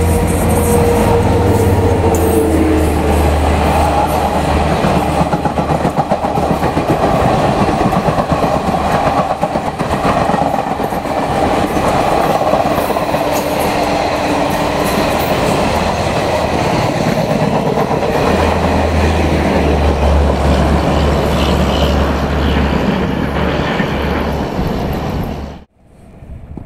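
Electric-locomotive-hauled express train passing at high speed, a steady roar with its wheels clattering rhythmically over the rail joints. The sound cuts off abruptly near the end.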